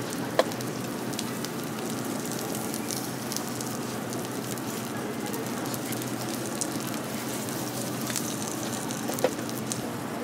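Egg and sausage sizzling steadily on a flat steel griddle, with two sharp clicks, one about half a second in and one near the end.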